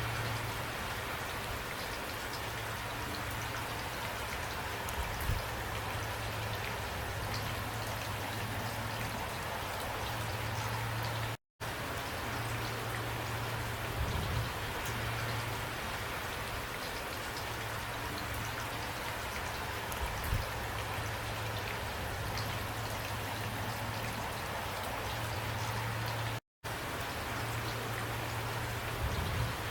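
Steady rain falling, an even patter with a low rumble underneath. The sound cuts out completely for an instant twice, about eleven and twenty-six seconds in.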